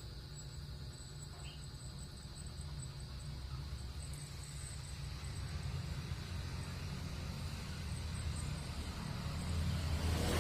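A steady low rumble that slowly grows louder, with crickets chirping faintly and high above it. A loud rushing hiss comes in at the very end.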